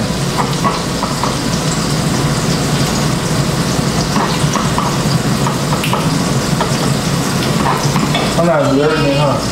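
Burger patties frying in a pan on the stove: a steady sizzle, with a few light clicks and scrapes of a spatula in the pan.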